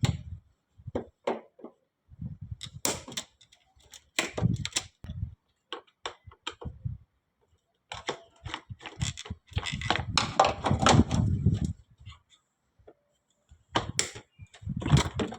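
Irregular clicks and knocks of hand tools handled against metal engine parts, with a denser stretch of rattling and scraping about eight to twelve seconds in.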